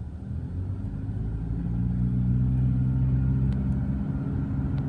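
Car running down the road, heard from inside the cabin: a low engine and road rumble with a steady hum that grows louder about a second and a half in, then holds.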